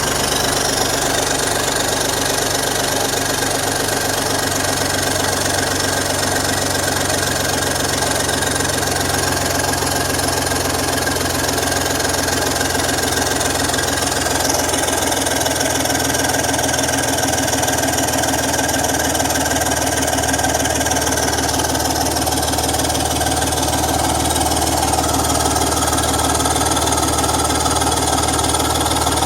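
BMW M54 straight-six engine running steadily, with a fast, even ticking from an exhaust leak.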